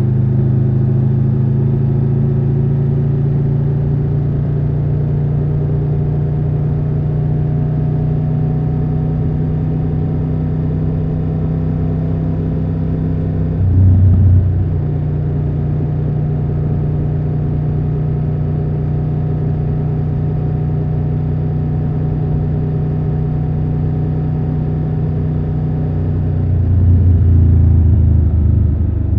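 Triumph Tiger 1200 Rally Pro's 1160 cc inline-triple engine running at steady cruising revs. The engine briefly surges louder about halfway through, then grows louder again with a change in pitch near the end.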